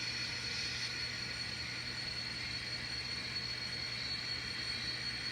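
Steady low hiss with a constant faint hum and a thin high tone: room tone, with no distinct events.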